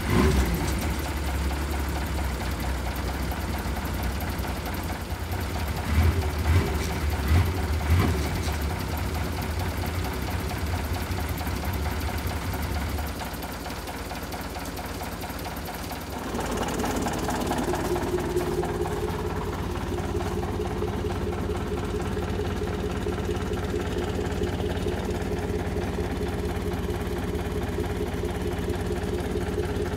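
An engine running steadily with a few loud knocks, then a dip about halfway through after which a snowmobile engine runs at a steady pitch.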